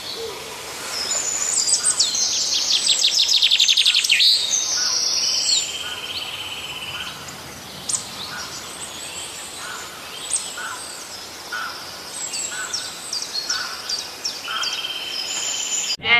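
Several songbirds singing and chirping together: fast trills, high whistled notes and short repeated calls, loudest in the first few seconds.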